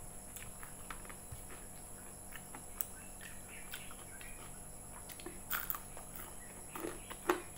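Close-up chewing of a crispy fried broccoli fritter (bakwan): scattered small crunching clicks, with a few louder crunches about five and a half seconds in and near the end.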